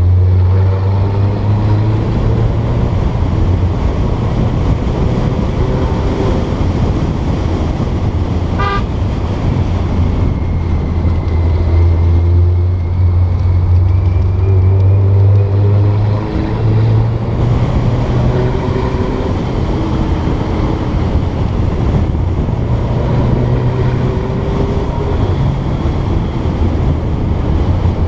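Porsche 912's air-cooled flat-four engine running steadily on the drive, its low note stepping up in pitch about halfway through. A short horn toot sounds about nine seconds in.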